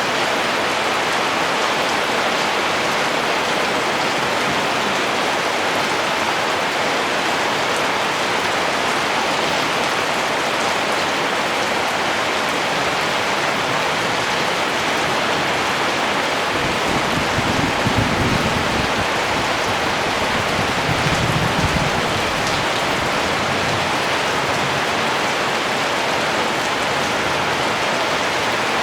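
Steady rain falling, a dense even hiss without let-up. A low rumble swells up twice, about two-thirds of the way through.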